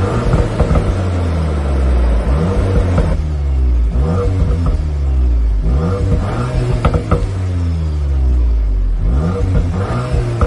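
Car engine being revved again and again, its pitch rising and falling about once a second, with a few sharp cracks among the revs.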